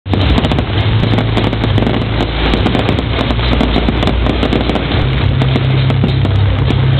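Fireworks display: a dense, continuous crackling with many quick pops and bangs over a steady low rumble, and music faintly underneath.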